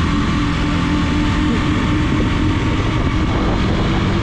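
KTM Duke 200's single-cylinder engine running at steady revs while the motorcycle is ridden, a steady engine note under road and wind noise.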